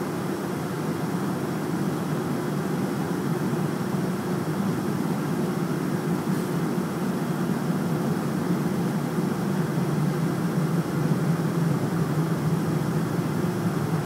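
Boeing 747-400ER jet engines running with a steady noise that slowly grows a little louder.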